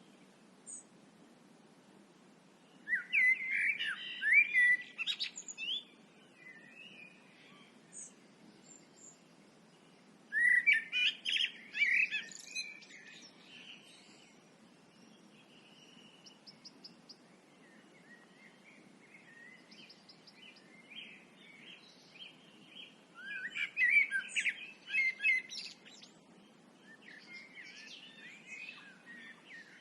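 Songbirds singing: three loud, varied song phrases of two or three seconds each, several seconds apart, with fainter calls and chirps in between.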